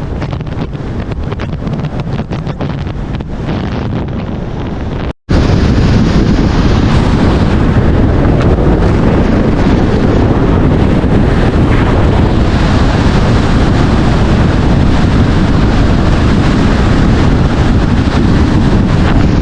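Strong wind buffeting the microphone in gusts. It breaks off abruptly about five seconds in, then comes back as a louder, steadier rush of wind noise.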